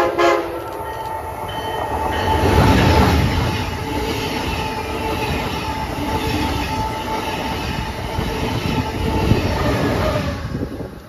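Amtrak Acela high-speed electric train sounding a short horn blast as it approaches, then passing close at speed with a loud rush of wheels and air. The rush cuts off as the rear power car goes by near the end.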